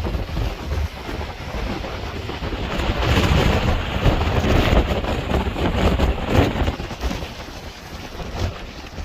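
Blizzard wind gusting and buffeting the microphone: a loud, rumbling rush of noise that builds a few seconds in and eases near the end.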